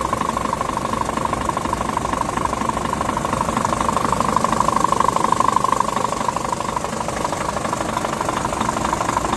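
Scania R440 tractor unit's 13-litre inline-six diesel engine idling steadily.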